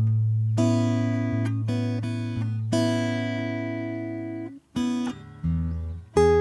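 Acoustic guitar played slowly, with chords strummed one after another and left to ring and fade over a low bass note. It drops out for a moment about four and a half seconds in, then comes back with a deeper chord.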